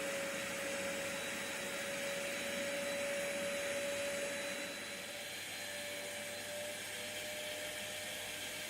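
A small electric motor running steadily with a hiss of rushing air and a thin high whine, like a vacuum or blower, easing off slightly about halfway through.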